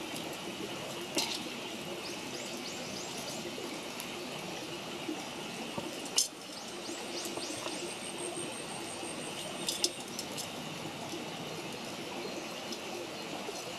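Wood campfire burning with a steady crackle and three sharp pops, the loudest about halfway through. Small birds chirp repeatedly in the background, and a thin, steady high whistle sounds for a few seconds in the middle.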